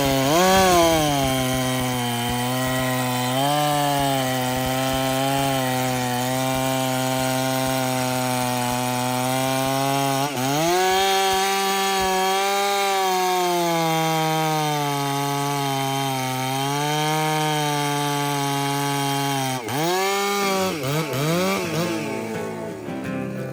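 Gas chainsaw cutting wood: the engine note sags and recovers under load and steps up in pitch about ten seconds in. Near the end it drops to idle, is blipped a few times, then fades.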